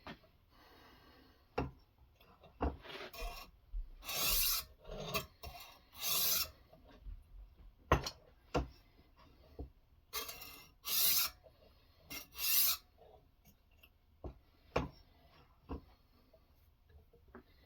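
Knife blade drawn across a Ruixin Pro sharpening stone in a guided sharpening system: a run of irregular rasping strokes, most under a second long, with a few sharp clicks between them, the loudest about eight seconds in.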